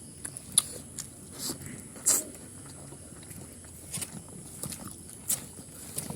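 Eating sounds of people chewing pork curry: scattered short wet smacks and clicks, the loudest about two seconds in.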